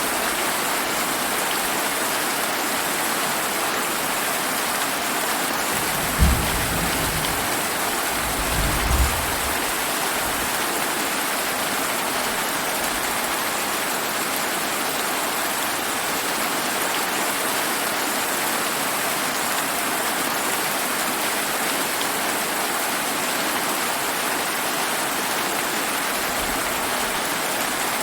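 Steady rain. A low rumble of thunder comes in about six seconds in, swells again a few seconds later, and dies away.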